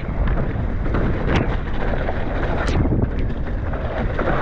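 Mountain bike riding over a dirt trail: loud wind buffeting on the camera microphone with tyre and trail noise, and a few sharp clacks from the bike rattling over bumps.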